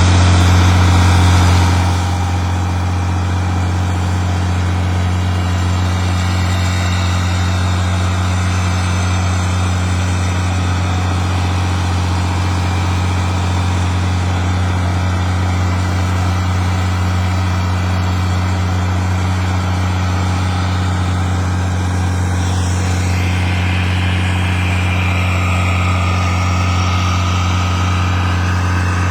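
Sand boat's engine running at a steady speed with a deep, even hum, a little louder for the first two seconds and then unchanging.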